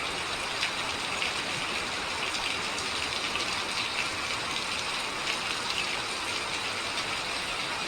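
Heavy rain falling straight down in a windless downpour: a steady hiss full of fine pattering drops.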